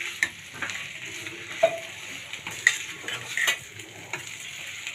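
A spatula stirring chicken and grated coconut in a pan over the heat, with a steady sizzle and several sharp knocks of the spatula against the pan.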